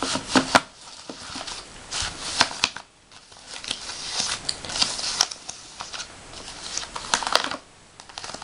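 Paper letters and envelopes being handled: irregular rustling and crinkling with a few sharp clicks.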